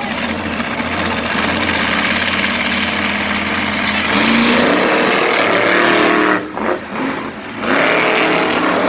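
Monster truck engines at full throttle in a race: a loud steady engine noise, then about halfway through a climbing pitch as the trucks accelerate, cut by two short dips near the end before going back up.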